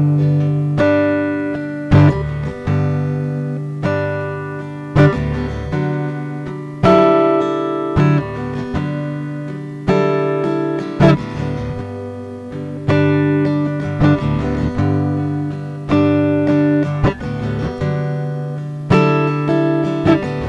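Acoustic guitar strumming chords, each chord struck about every one to two seconds and left to ring and fade.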